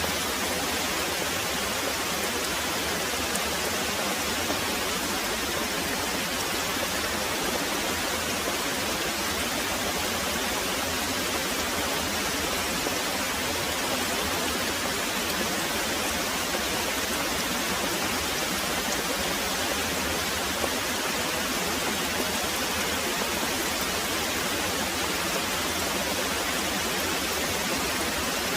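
Very heavy rain pouring steadily, an even hiss without let-up and no thunder heard.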